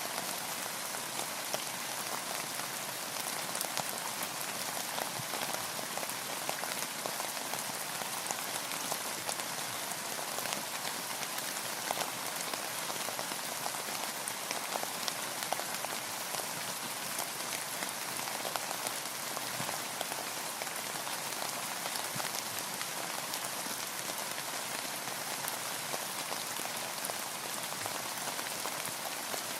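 Steady rain falling, an even hiss dotted with many individual drops ticking.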